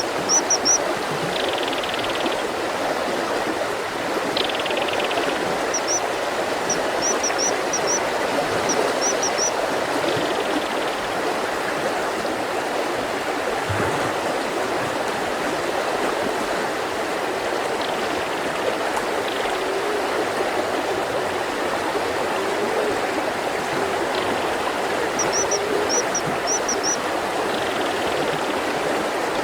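Mountain river flowing steadily over rocks. A bird adds short high chirps in quick runs of several, about half a minute apart at most, with a few fainter calls between them.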